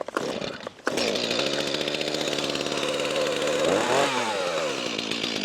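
Stihl two-stroke chainsaw, just started and still cold, running steadily from about a second in, with a brief rev up and back down near the middle.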